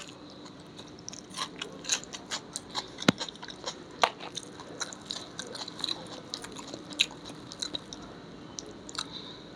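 Close-miked eating: a person chewing and biting food, with many small irregular crunches and wet clicks of the mouth, a few louder crunches about three, four and seven seconds in.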